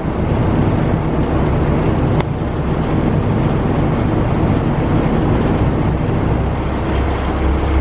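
Semi truck's diesel engine idling steadily, with a single sharp click about two seconds in.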